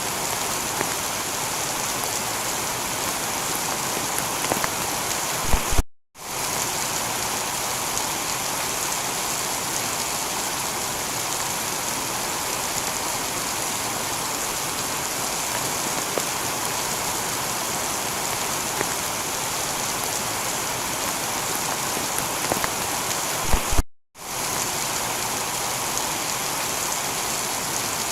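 Steady heavy rain falling on a tiled roof, an even dense patter with a few sharper drops. The sound cuts out completely for a split second twice, about six seconds in and again about four seconds before the end.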